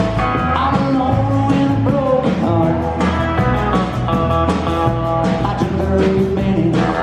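Live country-rock band playing, drums keeping a steady beat under bass and held guitar notes.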